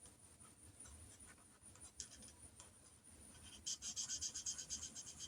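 Felt-tip marker colouring on paper: faint scratchy strokes at first, then, a little past halfway, a quick back-and-forth scribble of about five or six strokes a second as a number on the sheet is coloured in.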